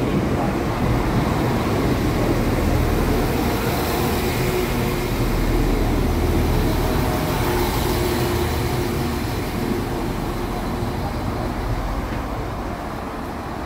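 Northern Ireland Railways Class 4000 diesel multiple unit pulling into the platform close by and slowing to a stop, its running noise easing off near the end.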